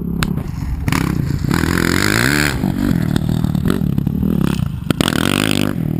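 KTM 350 EXC-F dirt bike's single-cylinder four-stroke engine revving up and down, with clatter and a few sharp clicks; the pitch swells and drops about two seconds in.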